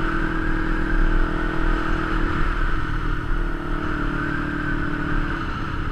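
Kawasaki Ninja 250's parallel-twin engine running at a steady speed while riding. The note eases slightly near the end.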